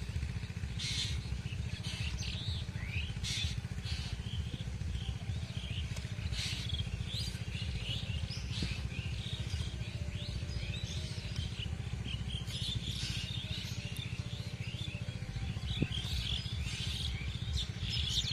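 Small birds chirping and calling over and over, more thickly near the end, over a steady low rumble.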